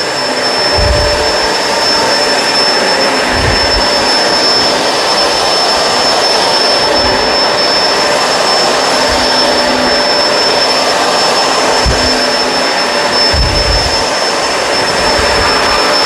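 Kenmore Crossover Ultra upright vacuum running steadily while it cleans a rug: a constant high whine over a rushing hiss, with low bumps every couple of seconds.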